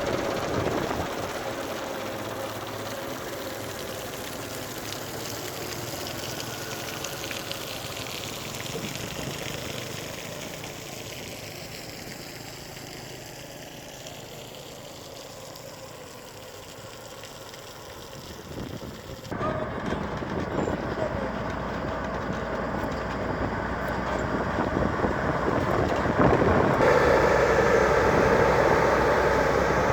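Vehicle engines running, fading down over the first two-thirds. After an abrupt cut they come back louder and grow louder again near the end.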